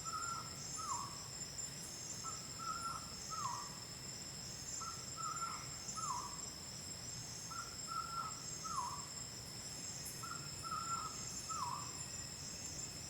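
A night bird repeating a three-note call about every two and a half seconds: a short note, a held note, then a note that slides down. Behind it is a steady high-pitched trill of night insects.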